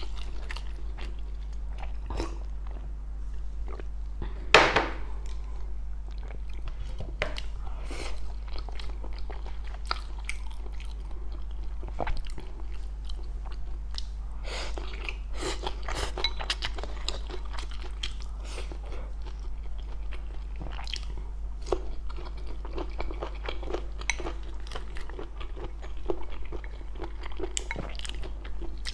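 Close-miked chewing and crunching of spicy stir-fried food (mala xiang guo), with many small irregular crunches and one louder crunch about four and a half seconds in. A steady low hum sits underneath.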